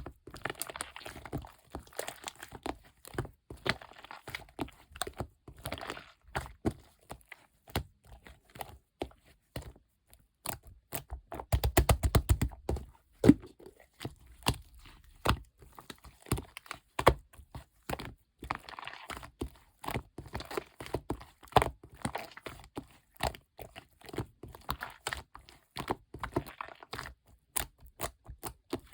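Clear slime mixed with small orange round beads being squeezed, stretched and poked by hand, giving many crisp clicks and crackles. Around twelve seconds in there is a dense run of rapid clicks.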